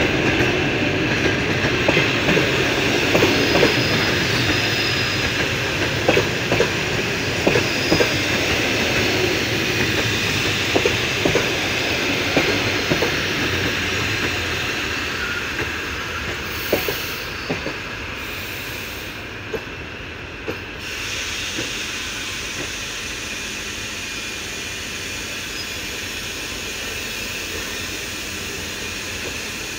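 Passenger coaches rolling slowly along the track, their wheels clicking over rail joints with a faint squeal. The clicks thin out about halfway through as the train comes to a stop, leaving a steady rumble.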